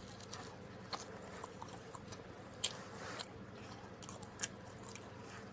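A person chewing pizza close to the microphone: faint mouth sounds with a few scattered small clicks and smacks, the sharpest about two and a half seconds in.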